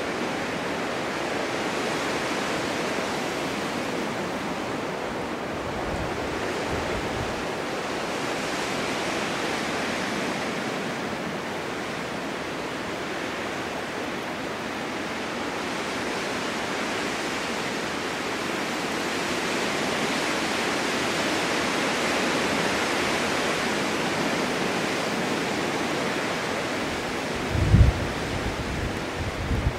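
Snowstorm wind rushing steadily, slowly swelling and easing in long gusts. Near the end a short, strong low rumble of wind buffeting the microphone.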